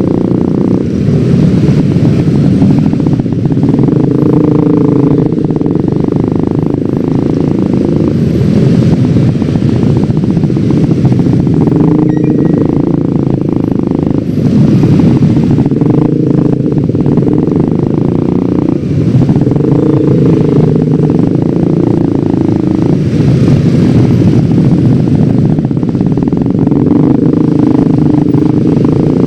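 Yamaha X-Ride 113cc scooter's single-cylinder engine running under way, its note rising and falling every few seconds with the throttle.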